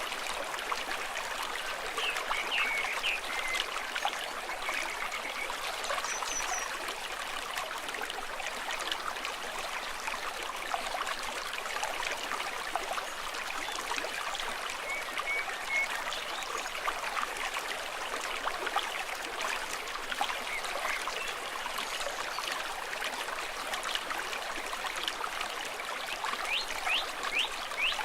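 Small stream flowing and trickling steadily, with a few brief high sounds here and there.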